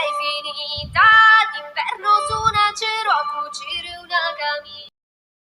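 A woman singing a melodic song over a light beat, with no intelligible lyrics picked up. The song cuts off suddenly near the end, leaving silence.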